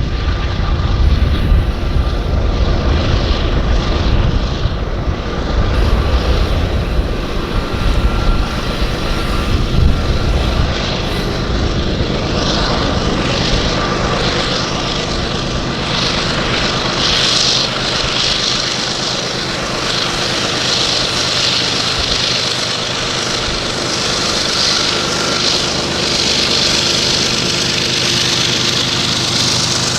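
Loaded Union Pacific coal train climbing a grade: a steady diesel locomotive drone over a rumble of rolling wheels and cars, with a hissing wheel-on-rail noise that grows in the second half.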